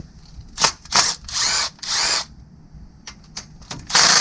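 Cordless Milwaukee power tool driving a 13 mm socket on two extensions, run in short bursts to back out 13 mm bolts on a 3.6L V6's timing cover: about four brief bursts, then a louder one near the end.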